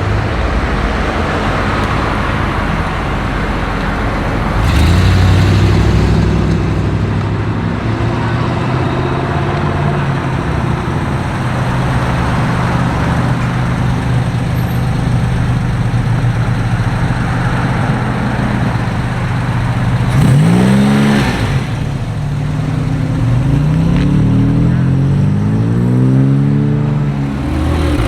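Car engines running, with a steady idle hum. About 20 seconds in, one engine is revved up and back down, and near the end there are several rising and falling revs as cars rev or pull away.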